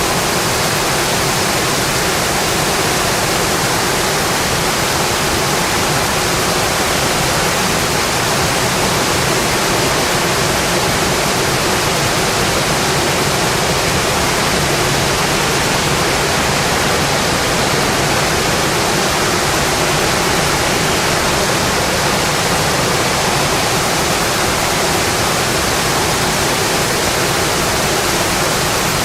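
Steady rain on a windowpane: a dense, even hiss with no breaks.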